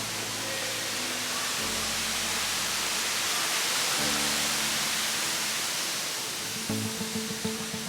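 Steady rush of a waterfall under background music: held chords that change every couple of seconds, with a regular beat coming in near the end.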